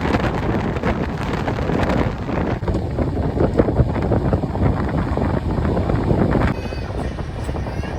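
Express train running at speed: a steady rush of wind and wheel noise, with wind buffeting the microphone. The sound changes abruptly and drops a little about six and a half seconds in.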